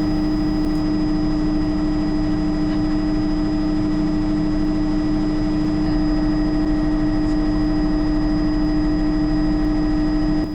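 Bell JetRanger helicopter in flight, heard from inside the cabin: its turboshaft engine and rotors running steadily, a loud constant drone with a thin high whine above it and no change in pitch.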